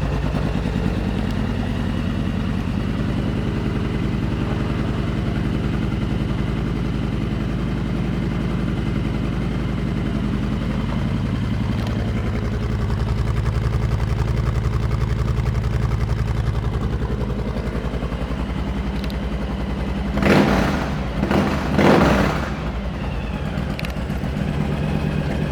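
Honda Sabre 1300's V-twin engine idling steadily through aftermarket Cobra exhaust pipes, just after a start. Near the end it rises sharply in level three times in quick succession, like short throttle blips.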